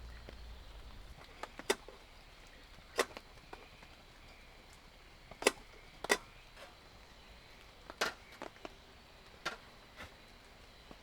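A series of sharp, irregular knocks and clicks, about six louder ones a second or so apart with fainter taps between.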